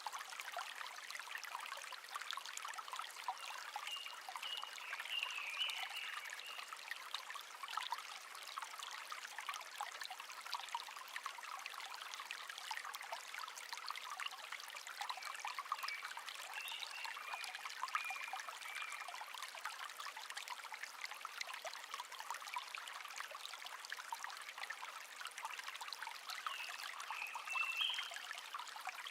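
Shallow brook trickling and babbling steadily. Faint birdsong comes through three times: about four seconds in, around the middle, and near the end.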